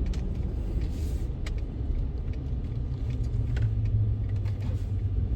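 Truck driving, heard from inside the cab: a steady low rumble of engine and road noise, with a few light clicks and rattles.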